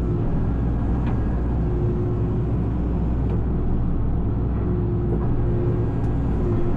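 Tracked excavator's diesel engine running steadily, with a faint whine that comes and goes.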